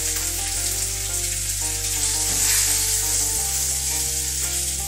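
Catfish frying in hot oil in a wok, a steady sizzle, while a spatula stirs the pieces. Background music with sustained notes plays underneath.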